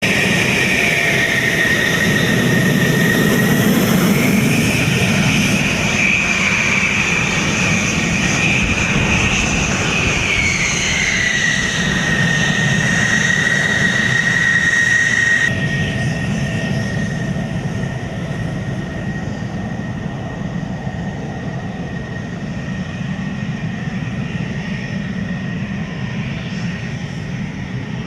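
F-16 fighter jet's engine running with a steady roar and a high whine that climbs about four seconds in and drops back a few seconds later. About halfway through the sound abruptly turns duller and a little quieter, as at an edit.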